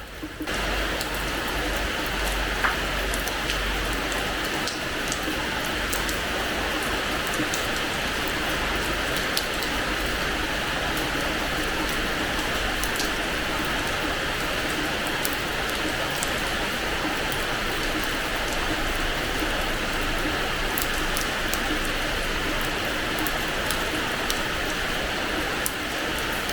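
Steady rain falling on a hard terrace floor, an even hiss scattered with sharp individual drop ticks. It swells up abruptly about half a second in and then holds steady.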